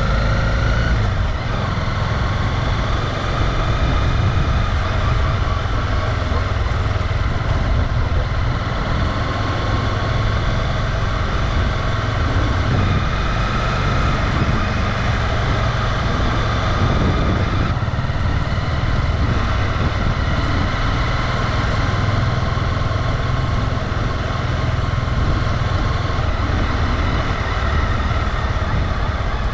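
Honda CB250R's single-cylinder engine running steadily while riding, over a constant low rumble.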